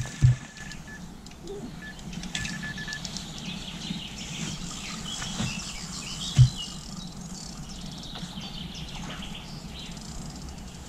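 Small birds chirping and twittering over a steady outdoor background. A thin high tone sounds in broken pieces during the first three seconds, and there is a single low thump a little past the middle.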